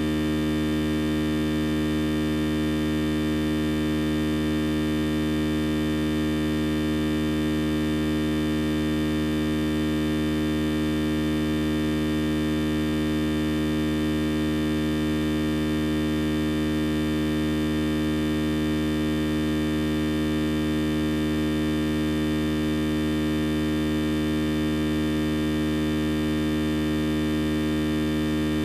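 A steady electronic hum of many held tones at once, not changing at all.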